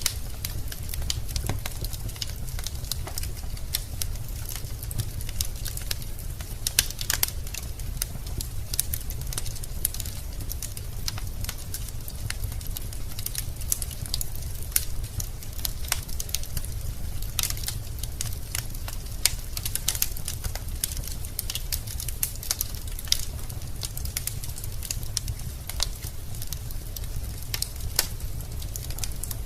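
Wood fire burning in a fireplace, the logs crackling with frequent irregular pops over a low steady rumble of the flames.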